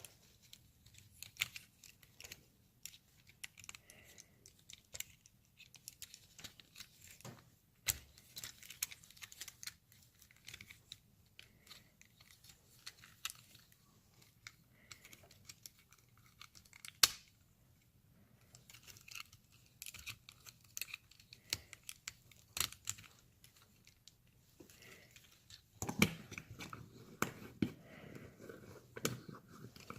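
Takara Tomy Masterpiece MP-23 Exhaust Transformers figure being transformed by hand: scattered faint clicks and snaps of its plastic parts and joints moving and locking into place. Handling becomes busier and louder near the end.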